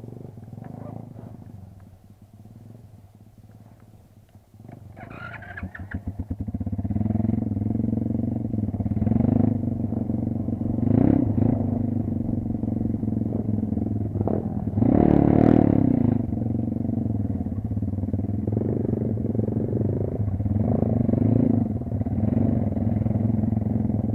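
Kayo dirt bike engine starting about five seconds in, its firing speeding up quickly, then running with several short revs.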